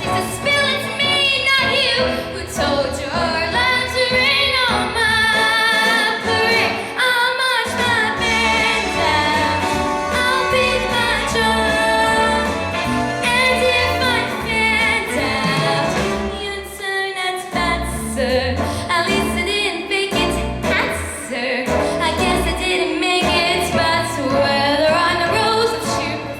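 A young female singer singing solo with vibrato over musical accompaniment.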